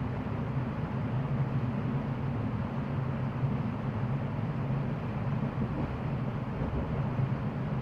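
Running noise inside the passenger carriage of a moving NS Sprinter commuter train: a steady low rumble with a constant hum underneath.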